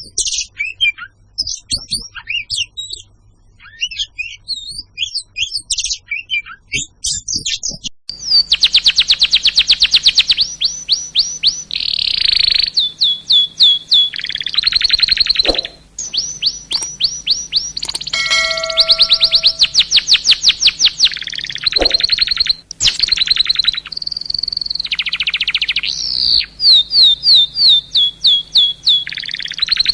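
Songbirds chirping and singing: scattered short chirps at first, then, from about eight seconds in, loud fast trills of rapidly repeated high notes, again and again. A brief steady tone sounds once near the middle.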